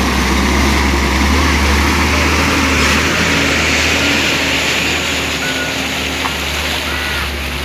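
Motor vehicle running on a road, with a steady low engine rumble and road noise.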